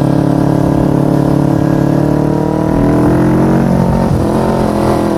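Kawasaki Ninja 250's carbureted parallel-twin engine running at steady cruising revs as the motorcycle rides along. The pitch dips slightly about three seconds in and changes again a second later.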